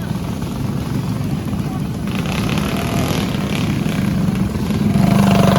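Small mini bike engines running in a race, one bike coming close and getting louder about five seconds in.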